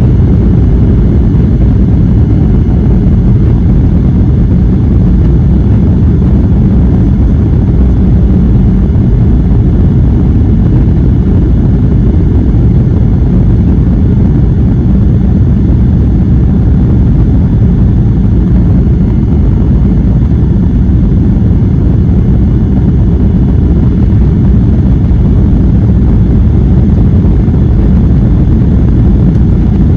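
Airliner cabin noise heard from inside the passenger cabin: a loud, steady low rumble that does not change.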